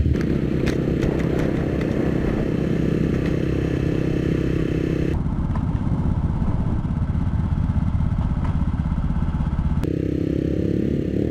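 Motorcycle engine running steadily while riding, with the engine note shifting in pitch near the end.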